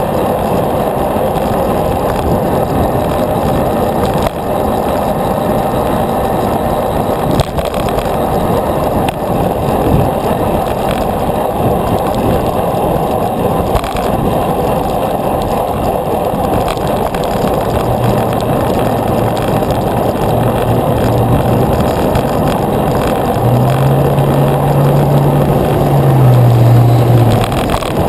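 Wind rushing over the microphone and tyre-on-road noise from a bicycle riding along. In the last third a low steady hum comes in twice for a few seconds, the second time a little higher in pitch.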